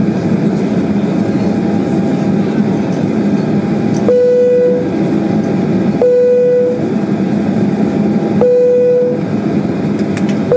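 Steady airliner cabin noise with the engines running while the aircraft waits on the ground. Three short single-pitch beeps come roughly two seconds apart, starting about four seconds in, and a fourth begins right at the end.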